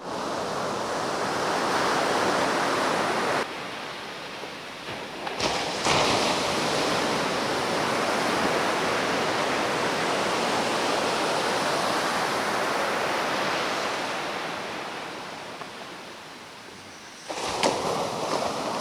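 Ocean surf washing on a beach with a swell running: a steady, dense wash of waves. It drops and rises abruptly a few times, about three seconds in, again near six seconds, and near the end.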